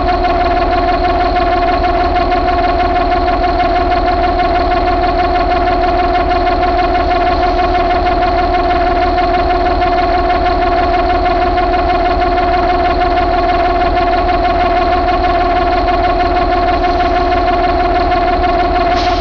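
Mercedes MBE926 inline-six diesel engine running steadily at idle, with a constant even drone.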